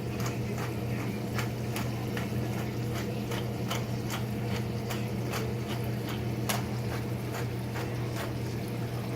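Chicken tenders frying in butter in a heavy pan on high heat, with scattered, irregular crackling pops over a steady low hum.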